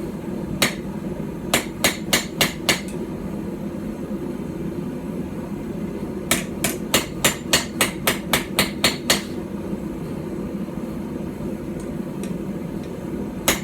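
Small hand-forged hammer of about 12 ounces striking hot steel on a stump anvil, drawing out the point of a small knife blade. It lands one blow, then a quick run of five, then after a pause a run of about a dozen at roughly four a second. A steady low rushing noise runs underneath.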